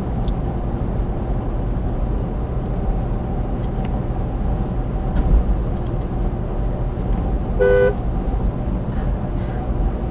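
Steady engine and road rumble of a moving truck heard from inside the cab, with one short car-horn honk, about half a second long, near the end.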